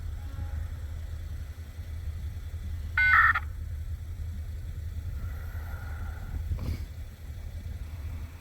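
Idling engine with a steady low rumble. About three seconds in comes one short, loud beep made of several tones at once, lasting under half a second.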